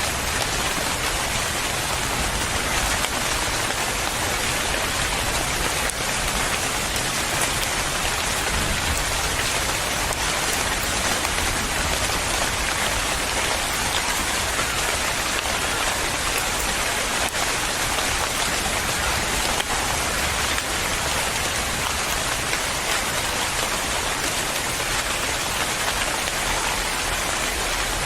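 Steady rain falling and pattering on a surface, an even unbroken hiss.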